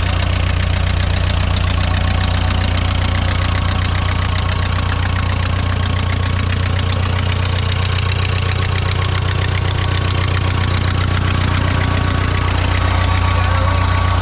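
International 2400B tractor engine running steadily, newly revived after a fuel-system repair.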